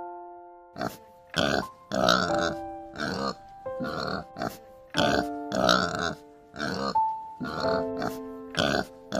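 Domestic pig grunting over and over in short, rough grunts, about one or two a second, over background music with held notes.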